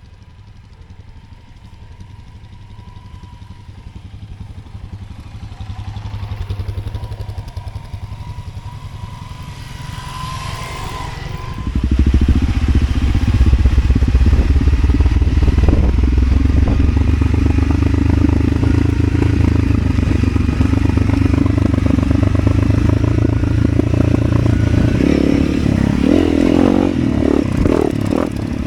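A motorcycle engine grows louder over about twelve seconds, then runs loud and steady close by. Its note shifts and breaks up over the last few seconds.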